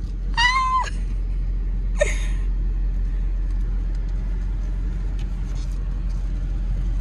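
Car engine running steadily at low speed as the car creeps forward, heard from inside the cabin as a steady low rumble. A brief high-pitched vocal whine comes about half a second in.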